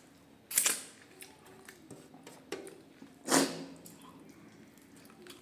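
A person eating: soft wet clicks and squishes of chewing, with two loud, short wet mouth sounds about half a second and three seconds in.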